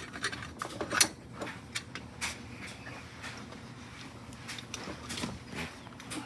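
Irregular metallic clicks and light knocks from hand tools and loosened bolts and brackets being handled during work under a car, the sharpest about a second in.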